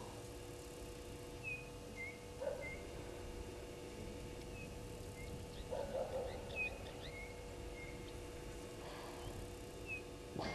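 Small birds calling at a waterhole: short high chirps repeated every second or so, with a few lower rough calls breaking in. A faint steady hum sits underneath.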